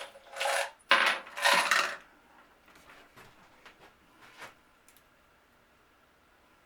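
Metal screws clattering and jingling as they are handled, in two loud bursts over the first two seconds, followed by a few faint ticks.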